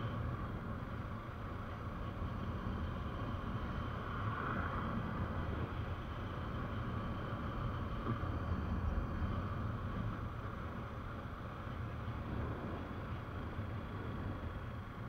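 Steady engine and road noise of a moving vehicle, an even rumble with no sharp events.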